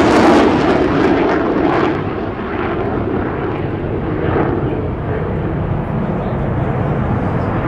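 Eurofighter Typhoon's twin Eurojet EJ200 turbofans: loud jet noise whose high hiss fades after about two seconds, leaving a steady, duller rumble as the jet draws away.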